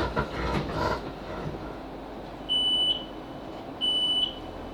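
Train door beeps as the Class 458 stops at the station: two identical steady high-pitched beeps, each about half a second long and about a second and a half apart, over the train's low steady hum.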